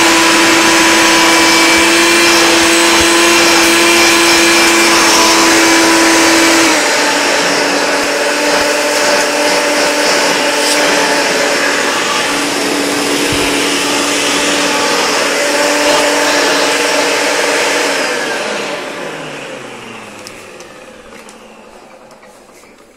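Hoover Turbopower Plus U2602 direct-air upright vacuum running with a steady high whine, which drops to a slightly lower pitch and level about seven seconds in. Near the end it is switched off and the motor and brush roll spin down, the pitch falling as the sound fades away over about five seconds.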